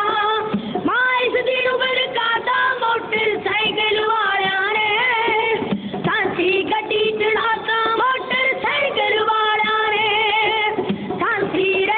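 Punjabi dhadi song: singing over instrumental accompaniment, with a long held note that wavers in vibrato about ten seconds in.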